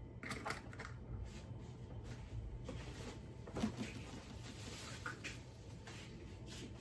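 Faint, scattered soft clicks and rustles of hands handling things in a kitchen.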